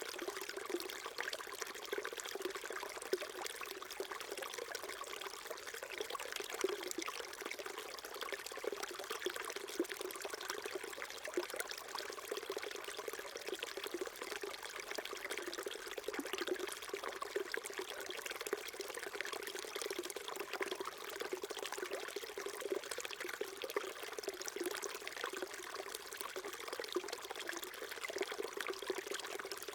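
A small mountain stream flowing steadily over rocks, babbling and trickling.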